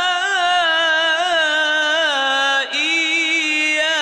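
Melodic Quran recitation: a single voice holds and ornaments a long drawn-out vowel with a wavering pitch. There is a brief break about two and a half seconds in, and the voice then carries on.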